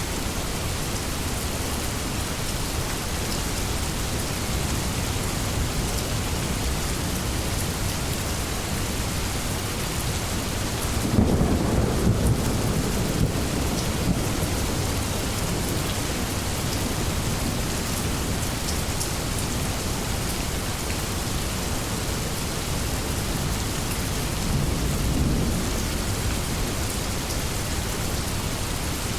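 Steady heavy rain hissing on a surface. About eleven seconds in, a roll of thunder rumbles for several seconds with a sharp crack in it, and a fainter rumble follows near the end.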